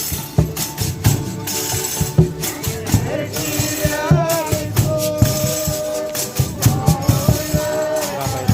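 Folia de Reis music: tambourines shaken and struck in a steady rhythm, with long held sung or played notes coming in about three seconds in.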